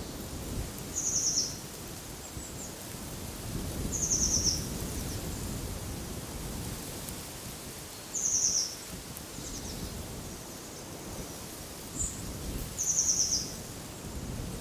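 A small songbird repeating a short, high, rapid trilled phrase four times, every three to four seconds, over a steady low rush of wind.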